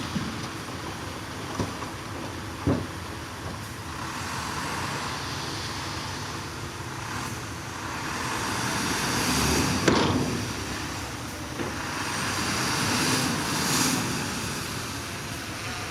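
Diesel engine of heavy earthmoving machinery running under load, its sound swelling twice, with a few sharp knocks; the loudest knock comes at the peak of the first swell, about ten seconds in.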